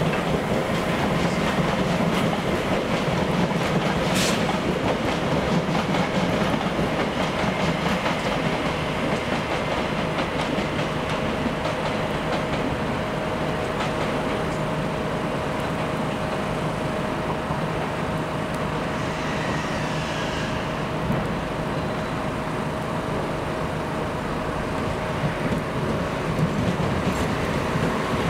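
Passenger train running on the rails, wheels clicking over the rail joints, with a steady hum underneath and a sharp click about four seconds in.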